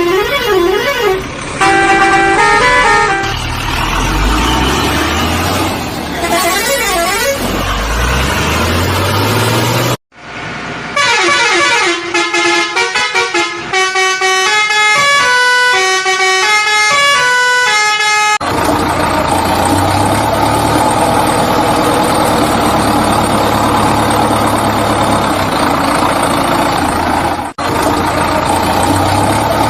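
Vehicle sound effects: horn toots and an engine revving up and down, then a musical horn playing a short tune of separate notes about a third of the way in, followed by a steady running engine.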